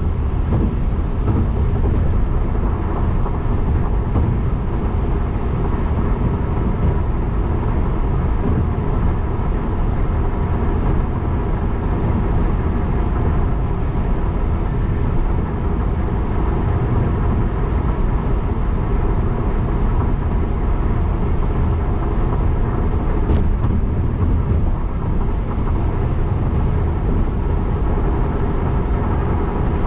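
Steady road and engine noise of a car driving, heard from inside the car: a constant low rumble with a faint hum. A single short click about 23 seconds in.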